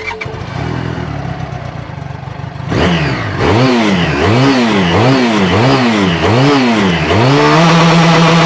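A 400cc water-cooled twin-cylinder motorcycle engine with a slash-cut exhaust, idling for about three seconds, then revved in about five quick throttle blips that rise and fall, and held at a steady higher rev near the end.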